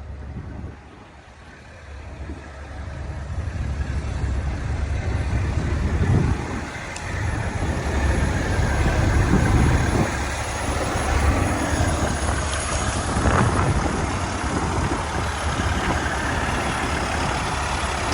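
Heavy diesel truck engine running close by, growing louder over the first few seconds and then holding a steady low rumble.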